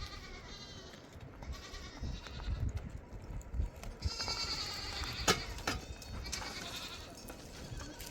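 Goats bleating repeatedly, several quavering calls one after another. A single sharp click comes a little past five seconds in.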